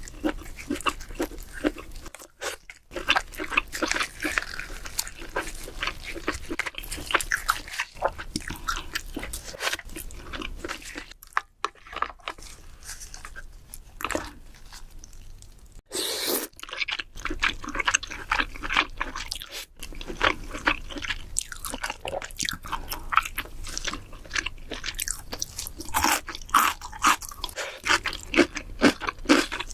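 A person chewing and biting king crab, a dense run of wet clicks and crackles with a few short pauses and a louder sharp crack about sixteen seconds in.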